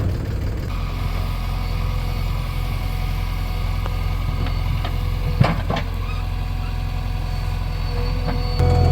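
Heavy diesel engine running steadily, with a brief metallic clatter a little past halfway. The low engine sound grows louder near the end.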